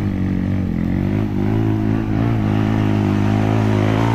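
Off-road motorcycle engine running at steady low revs, its pitch stepping up a little about a second and a half in.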